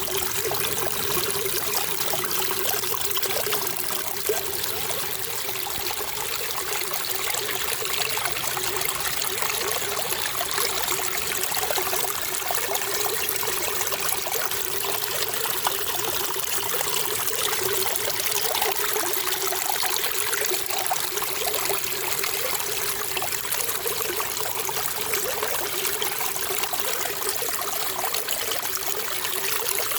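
Running water trickling steadily and evenly, with no pauses or surges.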